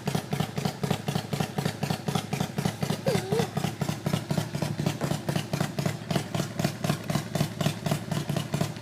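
Motorcycle engine idling with a steady, quick pulse of about five or six beats a second.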